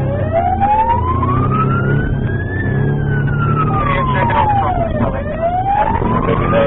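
Police car siren on a slow wail, its pitch rising and falling about once every five seconds, over steady engine and road noise.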